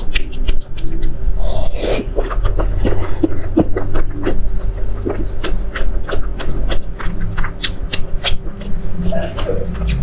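Close-miked eating sounds: wet chewing and smacking of a soft, sauce-dipped bite, with many quick mouth clicks.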